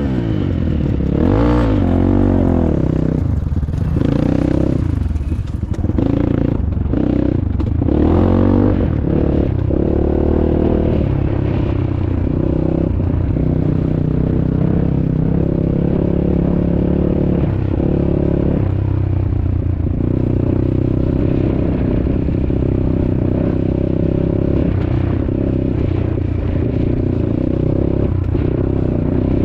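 Dirt bike engine close by, revved in rising and falling blips for the first nine seconds or so, then running steadily at low revs.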